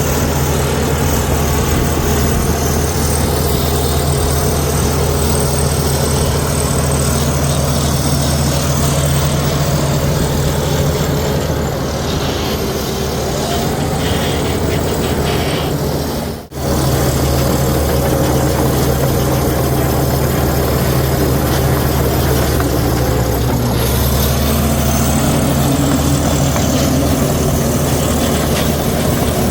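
Heavy diesel engine of earthmoving machinery running steadily, its note shifting a little a few times. The sound cuts out for a moment about sixteen seconds in.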